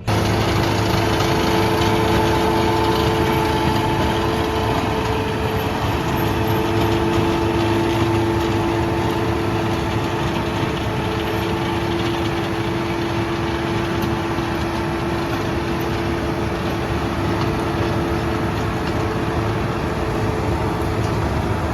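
Tractor engine running steadily, with a constant hum.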